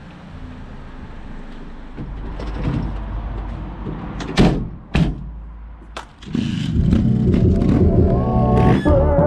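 Two sharp clunks from a van's rear door, then, from about two-thirds of the way in, a trials motorcycle engine running loudly.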